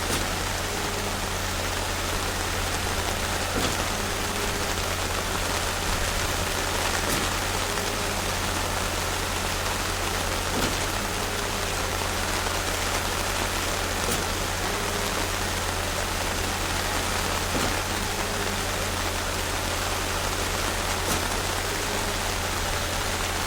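Steady rain falling on surfaces, an even hiss with scattered drop ticks throughout.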